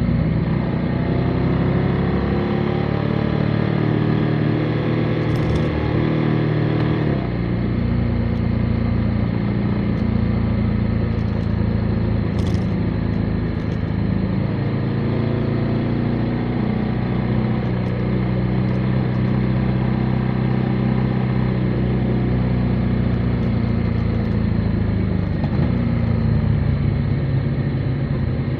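Motorcycle engine running under way, its pitch rising and falling with the throttle. The engine note changes about seven seconds in and again near the end.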